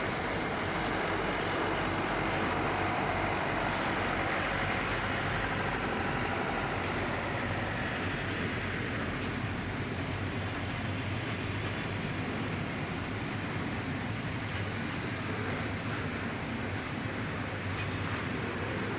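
Freight train of container wagons rolling past with a steady rumble.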